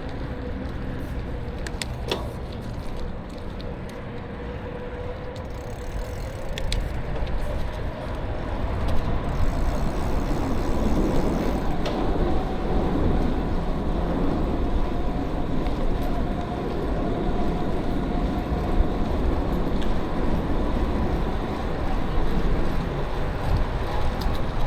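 Wind rushing over the microphone and tyre noise from a bicycle in motion, growing louder about a third of the way in, with a faint steady whine above it.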